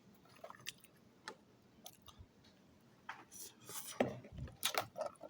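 Someone chewing food close to the microphone: irregular soft mouth smacks and clicks, sparse at first and coming thicker in the second half.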